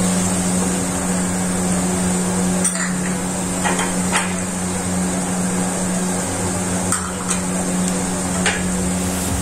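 Onions frying in oil in a pot, a steady sizzle over a steady low hum, with several short knocks against the pot as ground spices go in and the wooden spoon works them.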